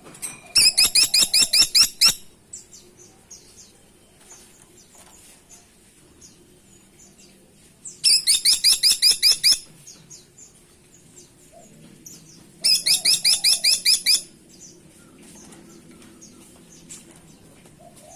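Caladi tikotok woodpecker giving three loud, rapid call series, each about a second and a half of some ten sharp, evenly spaced high notes. Faint chirps come in the pauses between.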